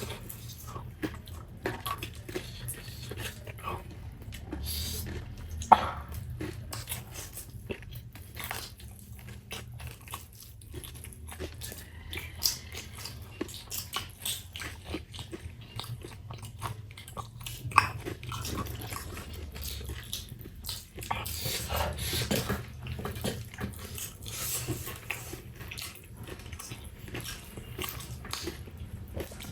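A person chewing and eating momo dumplings, with scattered small clicks and two sharper clicks, about six seconds and eighteen seconds in.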